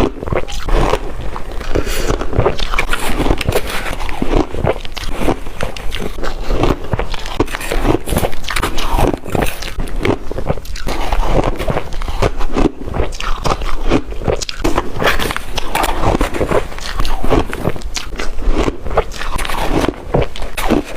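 A person biting and chewing shaved ice dipped in water: rapid, irregular crunches one after another.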